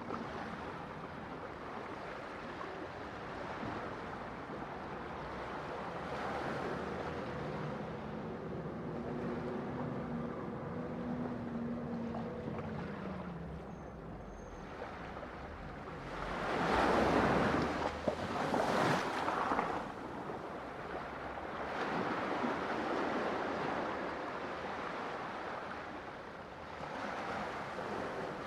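Ocean waves washing and breaking on a shore, a steady surf noise that swells and ebbs, with one louder wave crashing about two-thirds of the way through. A faint low hum sits under the surf in the first half.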